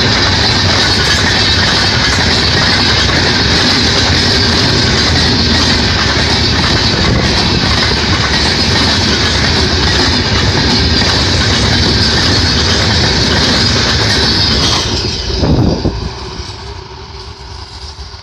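Express train's coaches passing close by at speed: a loud, steady rush and rattle of steel wheels on the rails. About fifteen seconds in the last coach goes by with a brief surge, then the sound drops away as the train recedes.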